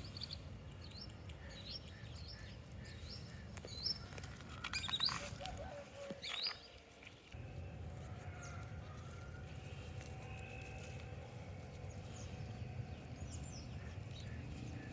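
Small birds chirping in a quick series of short rising calls over a steady low outdoor rumble, with a few sharp clicks in the middle and a brief drop-out about seven seconds in.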